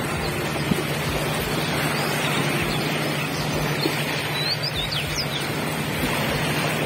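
Songbirds chirping in short, high calls, several of them in the second half, over a constant rushing noise and a steady low hum.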